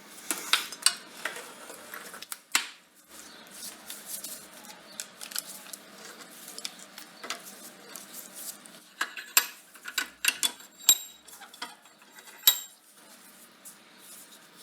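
Irregular metallic clinks and taps of small steel pieces being knocked and handled, a few ringing briefly, loudest in clusters near the start and between about 9 and 12.5 seconds in.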